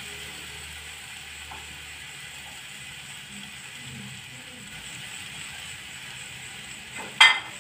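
Tempeh stir-fry sizzling faintly and steadily in an aluminium wok on a gas stove. One sharp metallic clack near the end.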